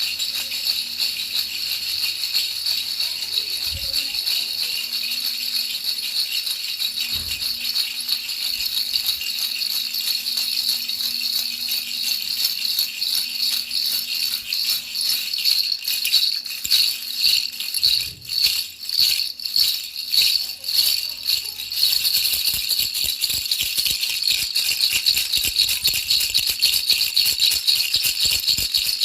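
Baby rattle shaken rapidly and continuously: a dense, high-pitched rattling. For a few seconds past the middle it breaks into separate shakes, then runs steady again.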